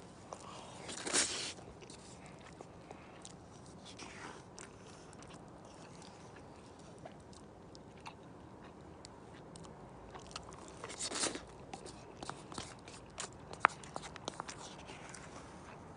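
Someone eating: two louder crunching bites, about a second in and about eleven seconds in, with small clicks and chewing sounds between.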